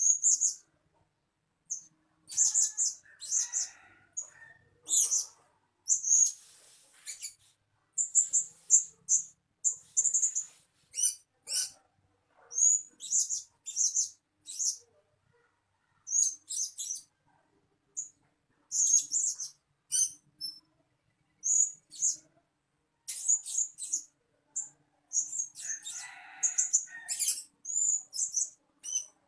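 Blue-crowned hanging parrot giving short, very high-pitched chirping calls, repeated in quick runs with brief pauses.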